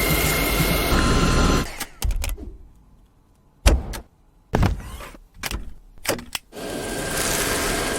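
A cordless stick vacuum cleaner's motor running with a steady rush and a high whine. It stops about two seconds in, then come several sharp clicks and knocks, and it runs again near the end.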